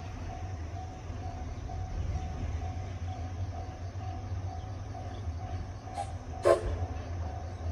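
Low, steady rumble of a train on the line, heard from trackside, with a faint evenly repeating tone. About six seconds in come two short sharp sounds half a second apart, the second the loudest.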